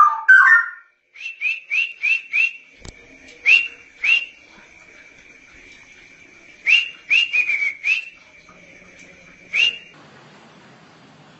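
Straw-headed bulbul (cucak rowo) song: a loud, rich warbling phrase breaks off just under a second in. Then comes a long steady high whistle, broken by a string of short, sharp upswept notes, quick at first and then more spaced, which stops about ten seconds in.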